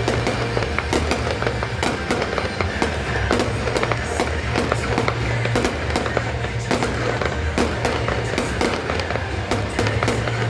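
Fireworks bursting in quick, irregular succession, many sharp bangs and crackles a second, over a steady low rumble.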